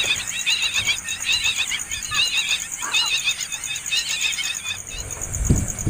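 Nestling birds begging with repeated high, quavering calls, with a few low thumps near the end.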